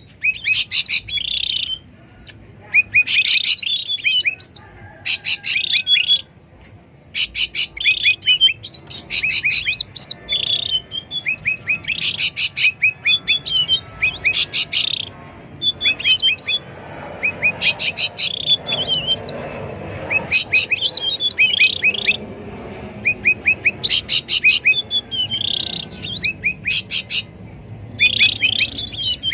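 Black-headed bulbuls (cucak ranting) calling busily: rapid trains of sharp, clicking chatter notes in short phrases that repeat every second or so, with brief pauses.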